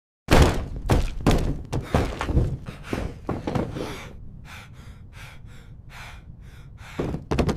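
A quick run of heavy thuds and impacts over a low rumble, thinning to lighter hits after about four seconds, with a couple more strong thuds near the end.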